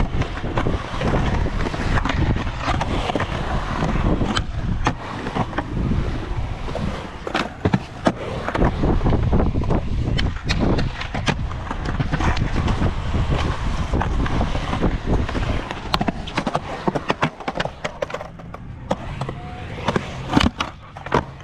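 Skateboard rolling, with many sharp clacks and slaps from the board's tricks and landings; it quietens over the last few seconds.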